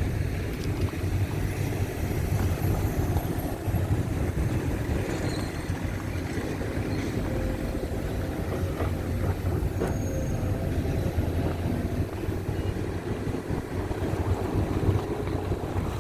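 Outdoor wind buffeting the microphone: a steady low rumbling noise.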